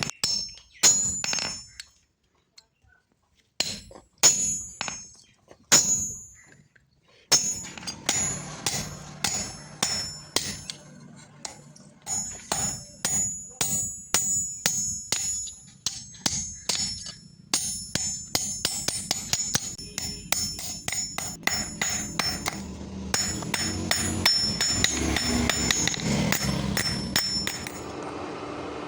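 Hammer blows on hot steel at an anvil, each strike ringing. A few spaced blows come first, then a steady run of about two blows a second from about seven seconds in, with a steadier noise under the blows near the end.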